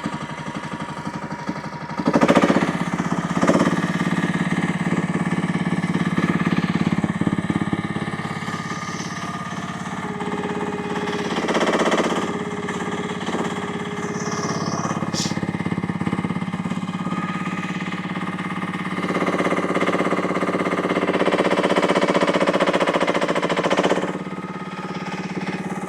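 UME10P mini excavator engine running steadily after starting, its sound swelling for stretches soon after the start and again near the end as the machine is worked.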